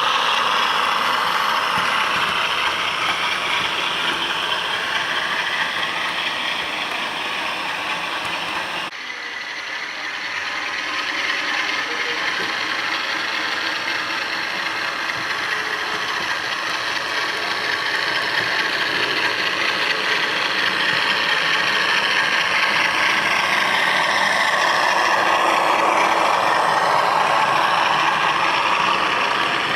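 Model Class 47 diesel locomotive running, its TTS sound decoder playing diesel engine sound through a small speaker over the whirr of the motor and gears. The sound drops and changes suddenly about nine seconds in.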